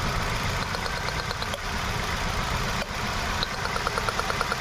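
Hyundai Venue petrol engine idling unevenly with a misfire: cylinder 1 is not firing because its injector gets no supply from a faulty ECM. A faint, fast, regular ticking comes and goes over the running engine.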